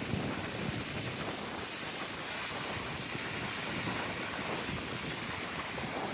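Steady wash of ocean surf mixed with wind noise on the microphone, an even rushing with no distinct events.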